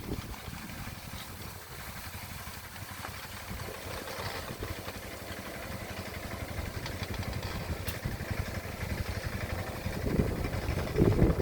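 Engine of a rice-field plowing machine running steadily with a rapid low pulsing, growing louder near the end.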